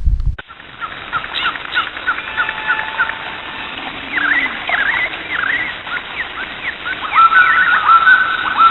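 Birds chirping: a run of short, quick chirps and sweeping notes, joined in the last few seconds by longer, steady whistled notes repeated with short breaks.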